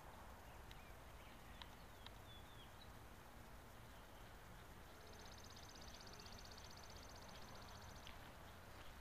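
Quiet outdoor background with a few faint high chirps, then a fast, high trill from a small animal lasting about three seconds, starting about halfway through.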